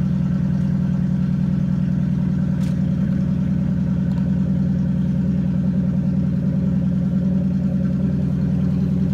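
2015 Mustang GT's 5.0 Coyote V8 idling steadily, with no revving.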